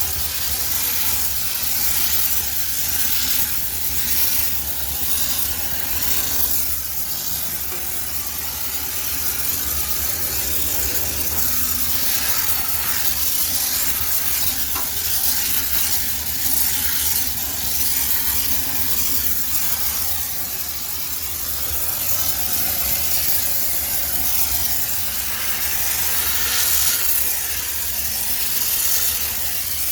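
High-pressure steam cleaner jetting steam onto a washing machine for sterilization: a steady hiss that swells and eases a little as the jet moves.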